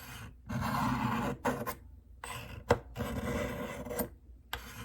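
A Buck Bantam knife blade being drawn down the coarse ceramic rods of a Spyderco Tri-Angle Sharpmaker: several scraping strokes, each up to about a second long with short pauses between, and one sharp click about halfway through. The dull edge is being worked toward raising a burr.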